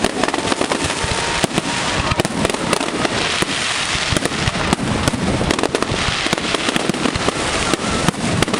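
Fireworks going off in rapid succession: a dense stream of bangs and crackling over a continuous hiss, with a few faint whistles.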